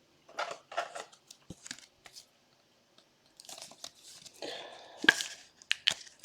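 Trading cards and their packaging being handled by hand: irregular rustling, crinkling and tearing, with a few sharp clicks about five to six seconds in.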